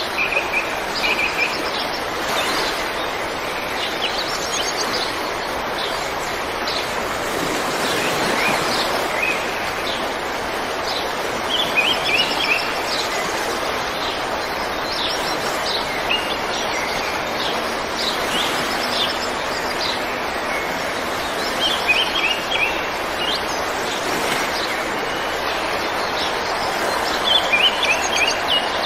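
Songbirds chirping in short bursts every few seconds over a steady rushing noise.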